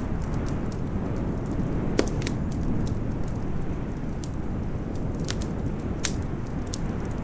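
Wood fire crackling, with scattered sharp pops that are loudest about two seconds in and again near six seconds, over a steady deep noise of storm wind.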